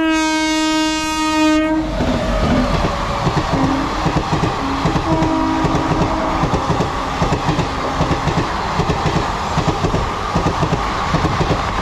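An electric locomotive's horn sounds one long note that cuts off about two seconds in. Then the coaches of a passenger train rush past at speed, the wheels clattering over the rail joints in a fast, even rhythm.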